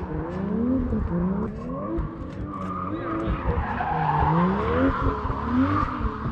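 Drift car's engine revving in repeated rising sweeps, about once a second, as it is driven sideways, with the tyres squealing through the second half.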